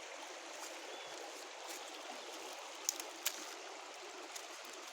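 Steady rushing noise from the surroundings, with two sharp clicks close together about three seconds in.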